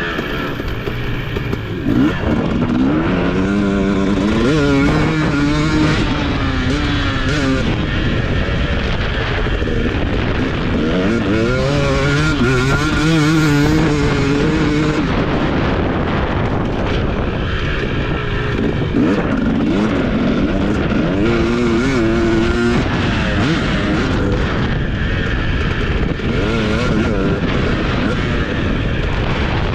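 TC250 motocross bike's engine revving up and dropping back again and again as it is ridden around the track, with a steady rush of wind noise underneath.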